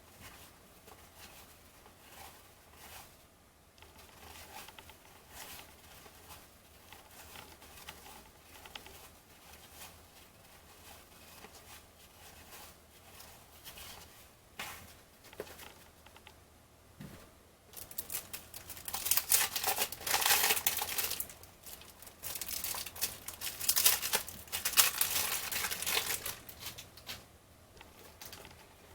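Soft handling of trading cards, then about two-thirds of the way in a cellophane-wrapped card pack crinkling and tearing loudly in several bursts as it is ripped open.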